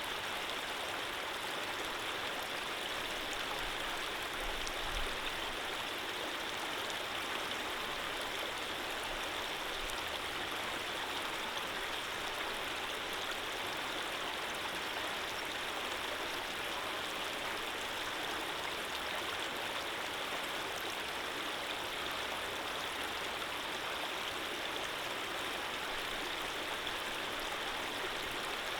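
Steady flowing water, a stream running evenly with a constant rushing sound and no change in level.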